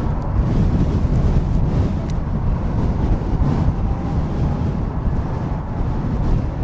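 Steady low rumble of jet airliner engines, with wind buffeting the microphone.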